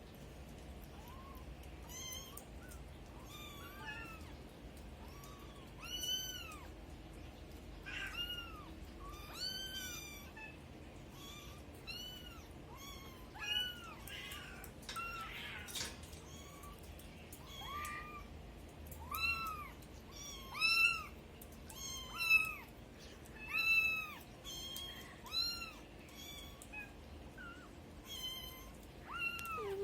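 Kittens meowing over and over: short, high, rising-and-falling calls about once a second, louder and more frequent in the second half.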